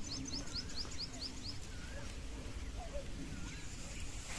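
Small birds calling: a quick run of about nine high, rising chirps in the first second and a half, and a few separate short whistled notes over a second apart.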